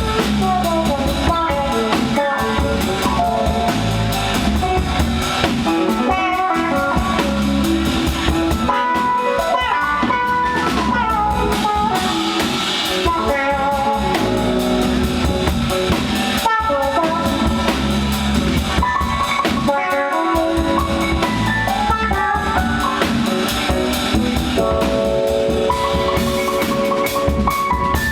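Live band music: a jam-band instrumental with an electric guitar playing bending, sliding lead lines over a drum kit.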